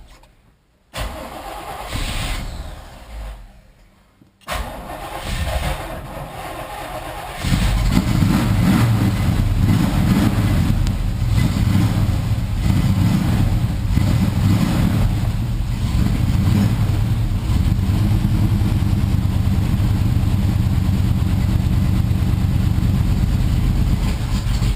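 1977 Camaro's 350 small-block V8 on a cold start: the starter cranks in short attempts broken by brief pauses, then about seven and a half seconds in the engine catches and runs steadily and loudly. The engine is cold, and its electric choke needs replacing.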